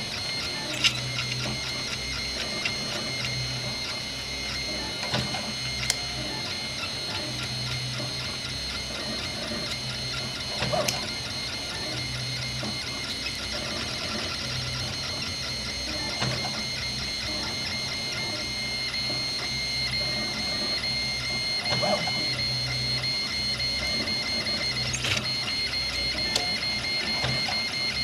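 RepRap 3D printer printing, its stepper motors whining steadily as the print head and the big Y platform move back and forth, with a low hum that starts and stops with each move. A few sharp clicks come through.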